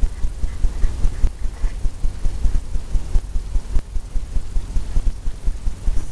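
Paintbrush stroking and tapping wet oil paint on a stretched canvas on an easel, giving a steady run of dull low thumps about three times a second.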